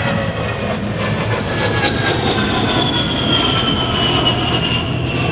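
A-10 Thunderbolt II's twin TF34 turbofan engines whining as the jet passes, the high whine falling slowly and steadily in pitch over a steady rushing noise.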